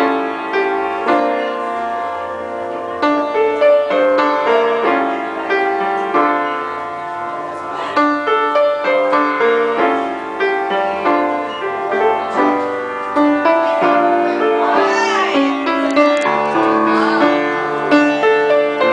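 Piano being played: a continuous melodic piece of steadily moving notes and chords.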